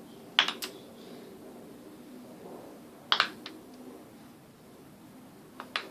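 Wooden kendama ball knocking against the ken in three short clusters of sharp clacks, about half a second, three seconds and near the end. These are attempts to swing the ball up onto the spike.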